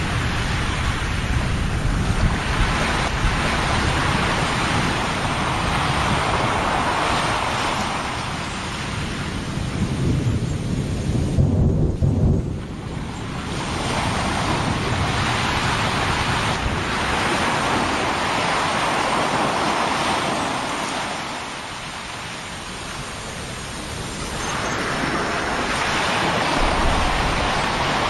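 Krakatau volcano erupting: a continuous rumbling noise that swells and fades over several seconds, with a heavier low rumble about twelve seconds in, mixed with wind on the microphone.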